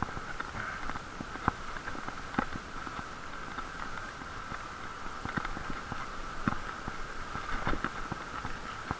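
Bicycle riding noise muffled by a waterproof camera case: a steady hum with a low rumble, and several sharp knocks from bumps in the road.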